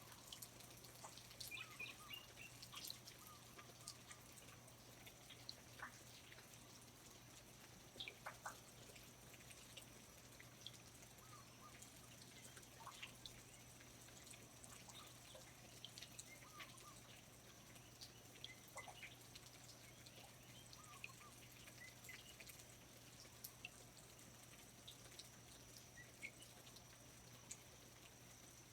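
Faint rainforest ambience: water dripping in scattered single drops, with short, soft bird chirps here and there over a steady low hum.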